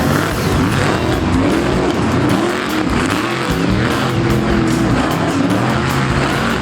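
Monster truck engine revving, its pitch rising and falling over and over, over loud arena music.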